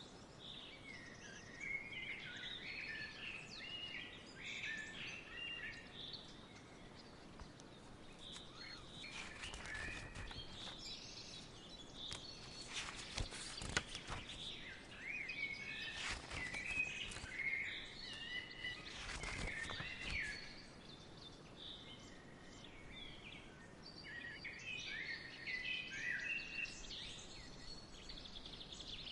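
Outdoor ambience of small birds chirping and calling in many short, overlapping calls, with a few brief rustling swells of noise in the middle.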